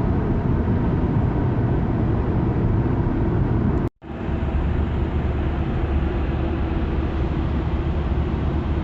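Car driving at highway speed, heard from inside the cabin: a steady low road-and-engine rumble. The sound cuts out abruptly for a split second about four seconds in, then picks up again.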